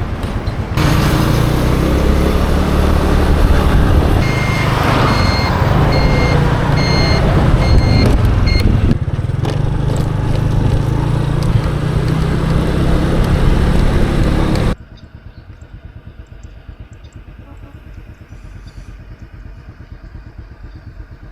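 Motor scooter riding in road traffic, its engine running steadily under the noise of the road. For a few seconds in the middle, a vehicle's repeated electronic beep sounds. Near the end it gives way to a much quieter, even background noise.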